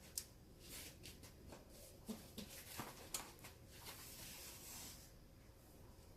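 Faint scratching and rubbing with a few small clicks, as hands work a leather baseball glove during its repair.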